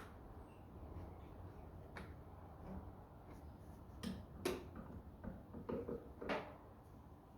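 A few light knocks and clicks, sparse at first, then a cluster of them in the second half, the loudest about four and a half seconds in.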